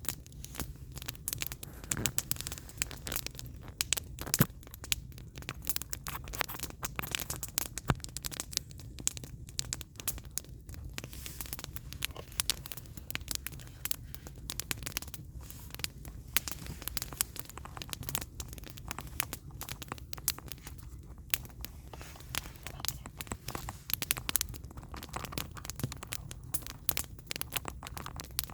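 Firewood burning in a campfire, crackling and popping continuously, with scattered louder pops over a low steady rumble.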